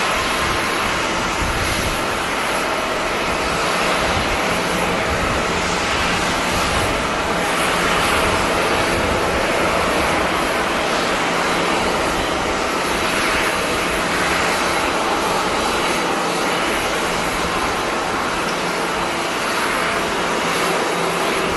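Passenger jet airliner engines running, a steady loud rushing noise with faint steady tones and no clear change.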